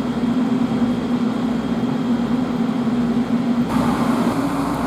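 A machine running steadily, a constant low hum over an even hiss. About three and a half seconds in, a louder hiss suddenly joins it.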